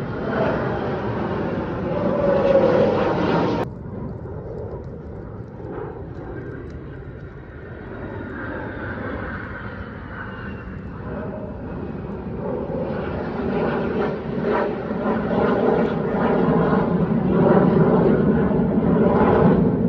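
Jet noise of an F-22 Raptor fighter flying overhead, from its twin Pratt & Whitney F119 turbofan engines. The noise drops off suddenly about four seconds in, a faint whine falls in pitch through the quieter middle, and the noise then grows steadily louder to its peak near the end.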